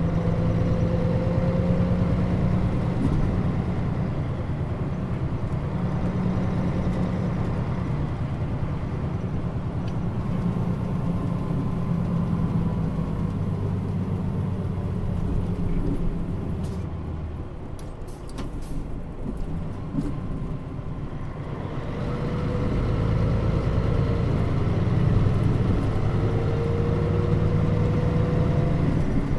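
Mitsubishi Fuso Aerostar bus (KL-MP35JM) heard from inside while underway, its diesel engine droning steadily. A little past halfway the engine drops back and quietens for several seconds, with a few sharp clicks. Then it builds again with a rising pitch.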